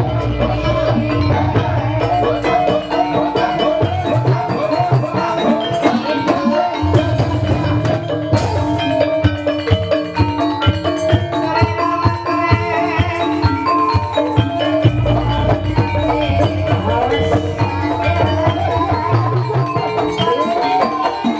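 Live Banyumas gamelan music accompanying an ebeg dance: a dense melody on struck, keyed mallet instruments over hand-drum beats.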